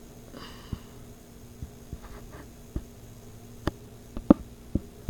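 Irregular soft taps and knocks, about nine, from a fingertip on a touchscreen drawing device, the loudest about four seconds in. A short sniff about half a second in.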